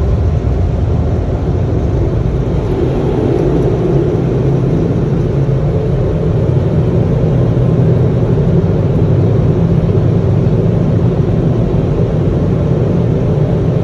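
Car wash drying blowers running, a loud steady rush of air heard from inside the car.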